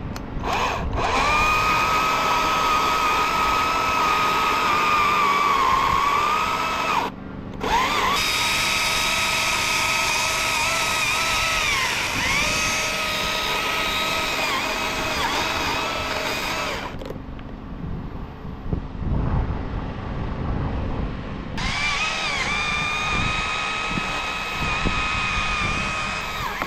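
Battery-powered chainsaw running in three long bursts, its high motor whine dipping in pitch as the chain bites into wood during cutting. A steady low hum runs underneath.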